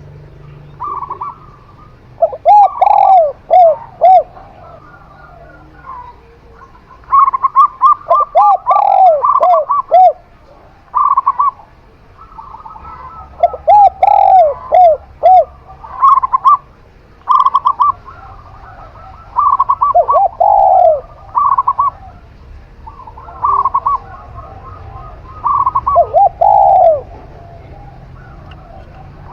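A zebra dove (perkutut) and a spotted dove (tekukur) cooing in turn, each phrase a quick run of short arched coos. One bird sings higher than the other, and the phrases follow each other every two to three seconds.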